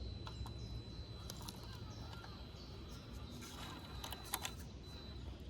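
Small birds chirping over a steady low outdoor rumble and a thin high whine, with a cluster of sharp clicks and knocks about four seconds in.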